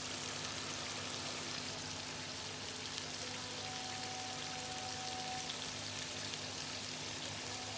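Chicken karahi sizzling as it fries in the pan: a steady crackling hiss.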